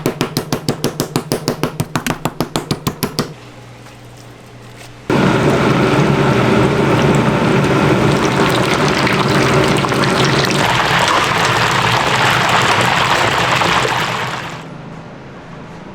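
Rapid, even knocking, about seven strokes a second, for the first three seconds. Then, about five seconds in, pork hits hot oil and a loud deep-frying sizzle starts suddenly, running steadily before dying away near the end.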